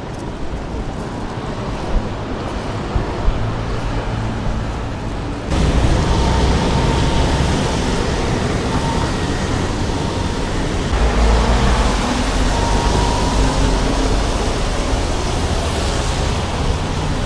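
City street traffic noise: a steady wash of passing vehicles that jumps louder about five seconds in, with faint held tones over it.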